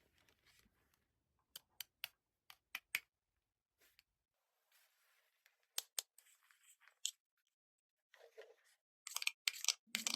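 Play-Doh and its plastic modelling tools being handled: scattered sharp clicks in small groups, then a short burst of crackling near the end.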